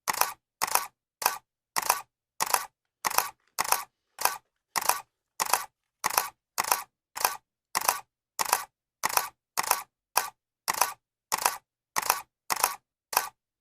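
Camera shutter click sound effect repeating at an even pace, a little under two clicks a second. Each click is a short two-part snap, with dead silence between.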